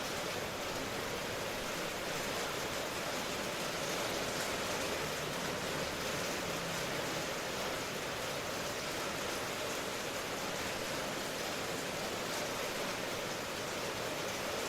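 Steady rain noise, an even hiss with no single drops standing out.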